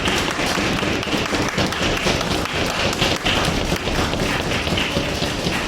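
Dense, irregular patter of footsteps and light taps in a busy hall, with no steel ringing.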